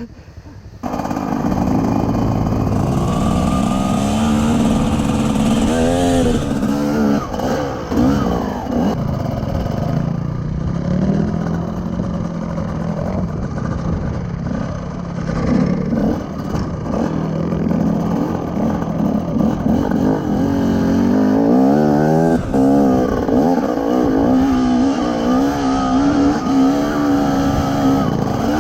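Off-road motorcycle engine running under load, its pitch rising and falling repeatedly as the throttle is worked. About three quarters of the way through it revs up to a higher, steadier note.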